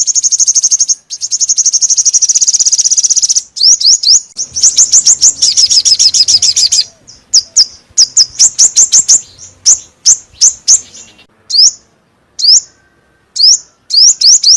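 Small songbird giving rapid series of sharp, high, down-slurred chip notes. A dense fast trill gives way about three seconds in to broken runs of the same notes, with pauses growing longer toward the end. This is a lure-call recording of the bird Vietnamese bird-trappers call chim 5 màu.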